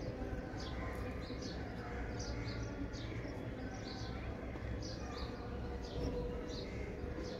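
Small birds chirping, short high chirps coming irregularly a few times a second, over a low steady rumble.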